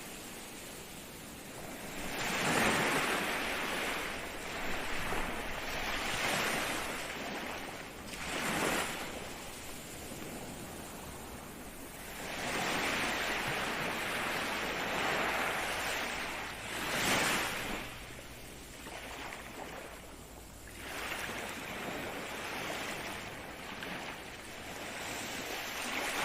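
Ocean waves breaking and washing in, in repeated swells every few seconds over a steady surf hiss.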